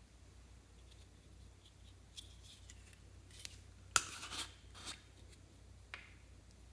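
A few faint, scattered clicks and crackles of small things being handled, the sharpest about four seconds in, over a low steady hum.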